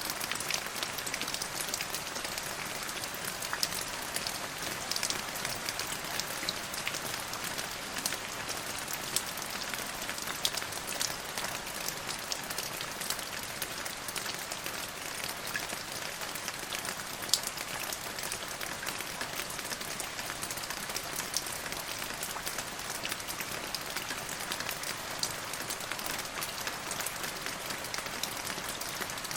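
Steady rain pattering on a hard surface, a continuous hiss with many close individual drop impacts.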